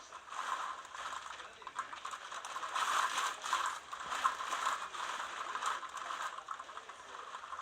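Typhoon rain driven by wind, pattering and rattling against a surface in gusts that swell and ease, loudest in the middle.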